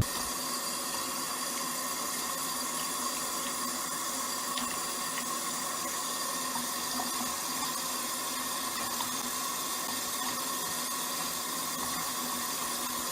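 Steady running water, an even unbroken rush that holds one level throughout.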